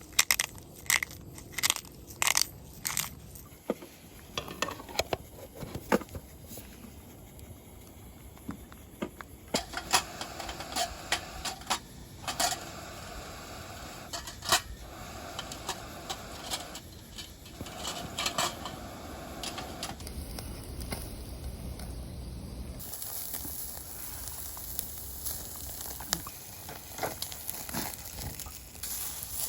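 Clinks, knocks and crackles of camp cookware and food being handled: many short, sharp sounds, thickest in the first few seconds, with a steady hiss coming in about three-quarters of the way through.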